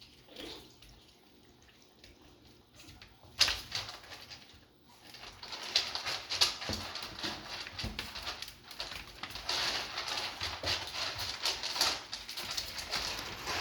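Chihuahua puppies playing: a single knock about three seconds in, then a long stretch of scuffling and pattering paws.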